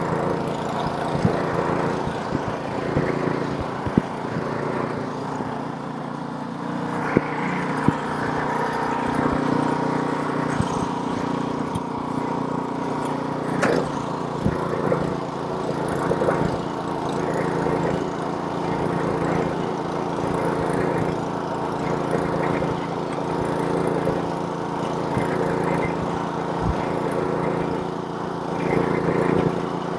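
Snowblower's small gasoline engine running steadily, with a few sharp clicks or knocks over it, the strongest about fourteen seconds in.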